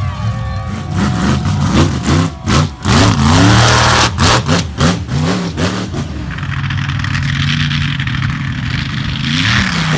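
Monster truck engine revving hard, its pitch jumping up and down in quick sharp swings with loud sudden cracks for the first several seconds, then running at a steadier high pitch with one more rise near the end.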